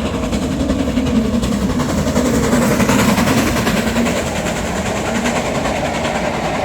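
GWR Manor-class steam locomotive 7827 Lydham Manor and its train running along the track into a station, a steady rumble with a low hum, a little louder a second or so in.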